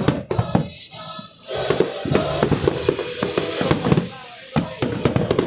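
Fireworks going off in a rapid, irregular string of bangs and crackles over music, with brief lulls about a second in and near four seconds.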